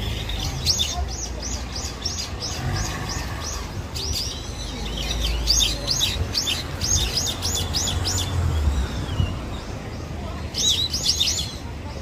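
Birds calling in quick runs of short, high, down-slurred chirps, about five a second, in three bursts with pauses between, over a low rumble.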